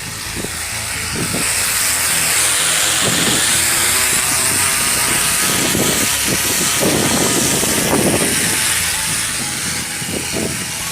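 Motorbike engine running as it rides. It grows louder over the first couple of seconds, holds steady, then eases a little near the end.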